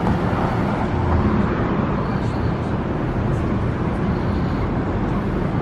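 Steady city street noise with the low rumble of road traffic.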